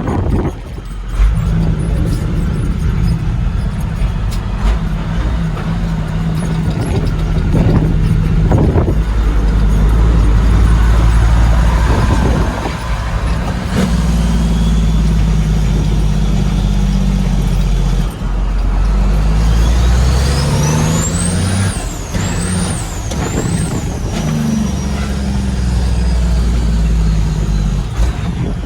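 Heavy diesel truck engine running under load, its pitch stepping up and down as it works through the gears. In the second half a high whistle rises and falls several times.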